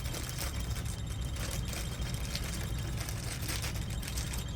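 Faint clicks of plastic key fob parts and cut keys being handled, over a steady low rumble.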